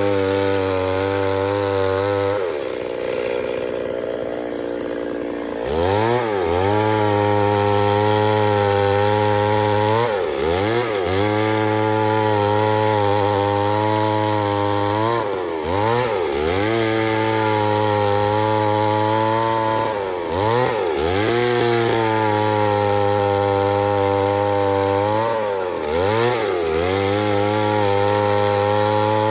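Two-stroke chainsaw running at high revs while cutting wood. Its pitch dips and climbs back about every five seconds, and it settles to a lower pitch for a few seconds near the start.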